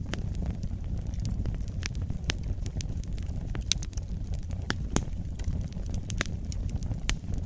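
Wood fire burning in a fireplace, with a steady low rumble of the flames and irregular sharp crackles and pops from the burning logs, the loudest pop about five seconds in.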